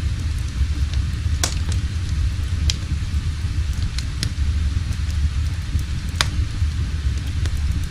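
Crackling wood fire: a steady low rumble with sharp pops every second or two, the two loudest about a second and a half in and near six seconds.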